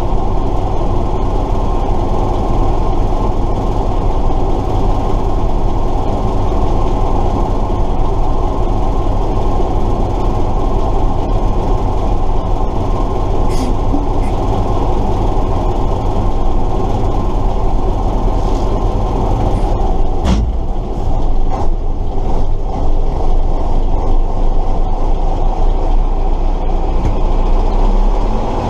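A 1968 Tatra 138 fire truck's air-cooled V8 diesel running steadily while the truck is driven, heard on board. About twenty seconds in the engine note dips briefly, with a few sharp knocks.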